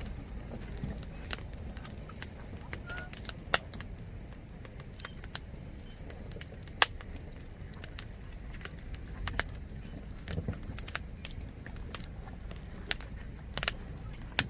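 Wood campfire crackling, with irregular sharp pops and snaps, two of them louder, one about three and a half seconds in and one near seven seconds.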